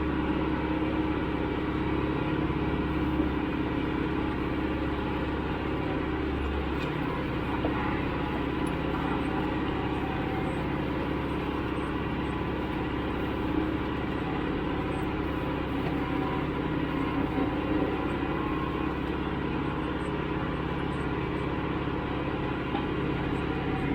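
Tractor engine running steadily, with a slight change in its low hum about seven seconds in.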